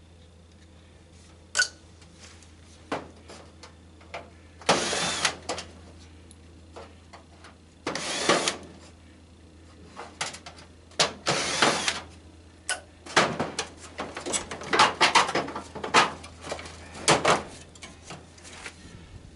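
Metal parts of a tanning bed being dismantled by hand: irregular metal clicks, knocks and rattles, with several short noisy bursts about a second long and a busy stretch of clatter near the end.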